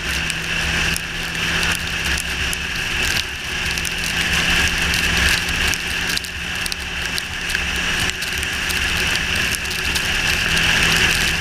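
Yamaha R6 motorcycle's inline-four engine running steadily, with the hiss and patter of rain over it.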